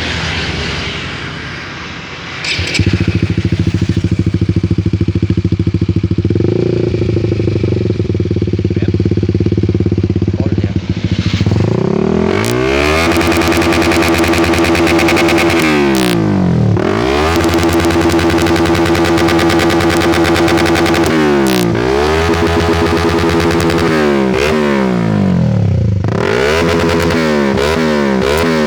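Honda CBR150's single-cylinder engine through an aftermarket stainless-steel F4 exhaust. It idles steadily, getting louder about three seconds in. From about halfway it is revved repeatedly, the pitch climbing and dropping with each blip of the throttle.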